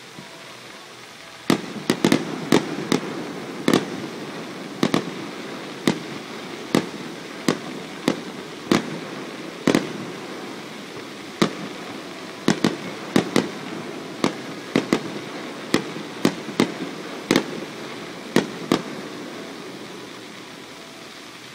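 Aerial firework shells bursting in an irregular string of sharp bangs, roughly one to three a second, starting a second and a half in and stopping shortly before the end. The reports echo and rumble around the mountain valley between the bangs.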